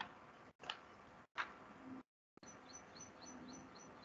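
Very quiet room tone with two faint clicks early, then a faint high-pitched chirp repeated evenly about three times a second from about halfway through, as of a small bird.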